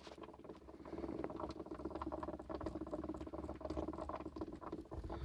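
Weird bubbling, fast crackling noise from low in a van's engine, over a low steady hum. The owner cannot place it and wonders about the engine coolant.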